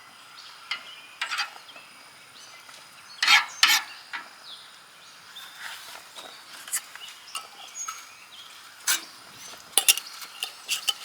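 A metal utensil tapping and scraping a frying pan while eggs cook: scattered sharp clicks and knocks, with a louder cluster about three seconds in and several more near the end.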